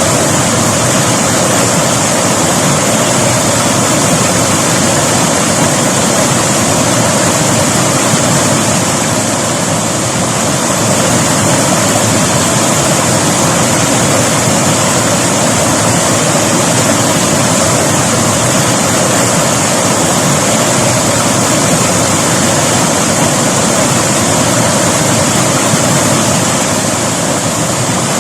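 River water rushing steadily over rocks, a constant loud hiss of flowing water.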